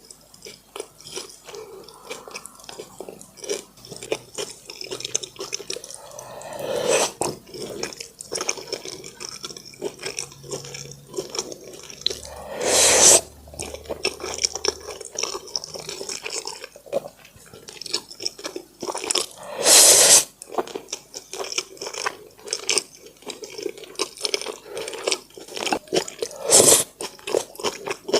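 Close-miked eating of pork braised in brown sauce: steady wet, sticky chewing and lip-smacking clicks. Four louder, longer wet mouth noises come about every six or seven seconds.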